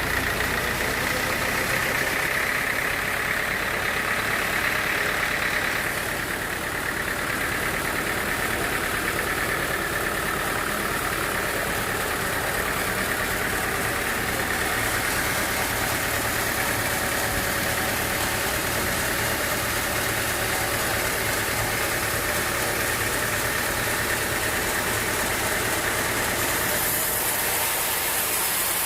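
Sawmill machinery running steadily, a continuous engine-like drone with a steady high whine and no break.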